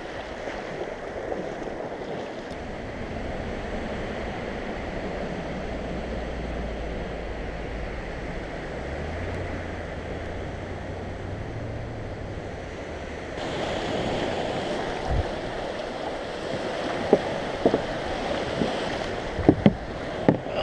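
Surf washing on a beach, with wind on the microphone, growing louder about two-thirds of the way through. A few sharp clicks and knocks come near the end.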